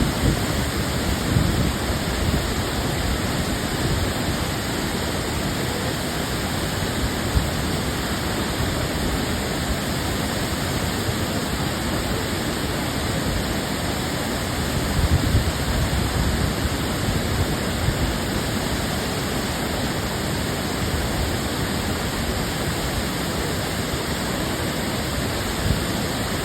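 Sekinoo Falls waterfall rushing, a loud, steady roar of falling water.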